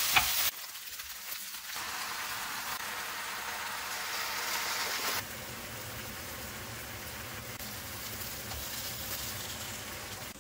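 Sausage, potato and kimchi sizzling in a frying pan: a steady hiss, with a wooden spatula stirring in the first moment. The hiss drops sharply about half a second in, swells again, and falls to a quieter level about five seconds in.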